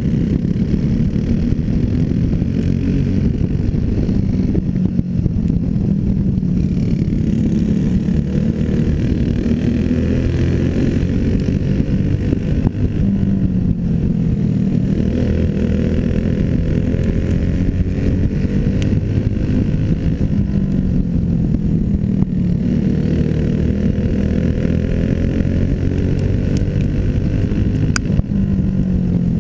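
Small racing engine of a clone-class racer running hard through laps, its pitch rising and falling over and over as it speeds up and backs off, about every six to seven seconds, over a constant low rumble.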